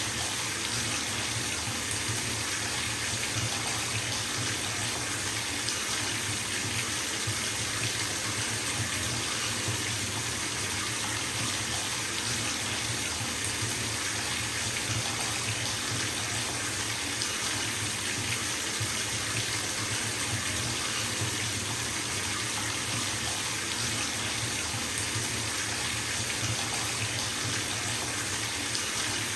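Bathtub tap running full, water gushing steadily into a filling tub as an even, unbroken hiss.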